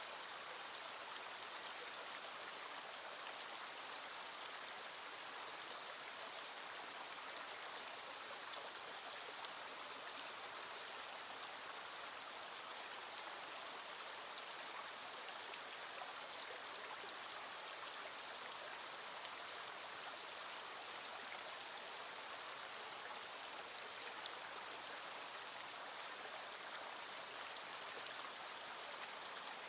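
Small stream flowing steadily over stones, with a few faint ticks standing out now and then.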